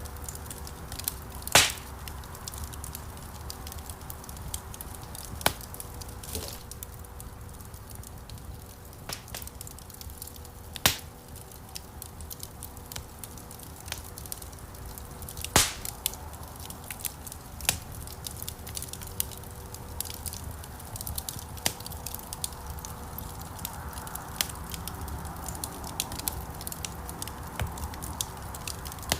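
Wood fire burning in a stone fireplace, a low steady rumble of flames with irregular crackles and sharp pops, two louder pops about a second and a half in and about halfway through.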